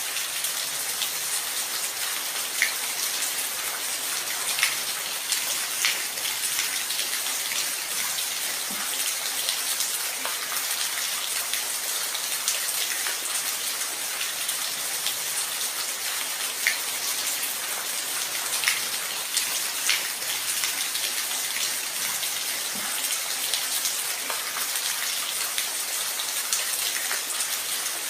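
Steady rain falling, a dense even hiss with distinct individual drops ticking out here and there.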